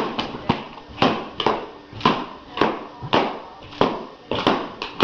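A series of sharp taps or knocks repeating about every half second, some of them doubled, each trailing off briefly.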